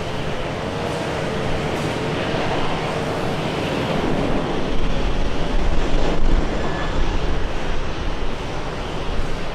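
Jet airliner engines running as a plane passes, with a faint whining tone drifting slightly lower. Wind rumbles on the microphone and grows stronger about halfway through.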